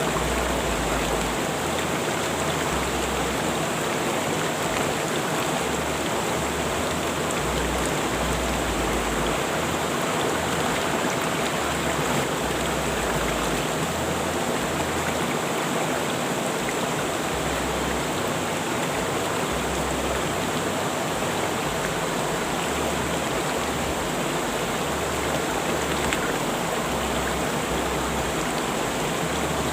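Rushing river water: a steady, even rush of flowing water that holds the same level throughout.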